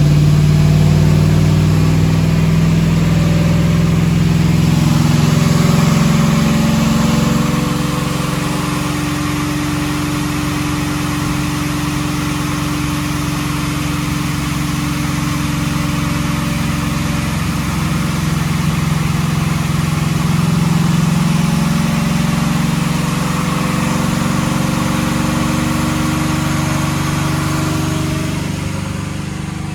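Supercharged 6.2-litre V8 of a Chevrolet Silverado pickup with long-tube headers and a custom exhaust, running steadily at fairly low revs, its pitch rising and falling slightly.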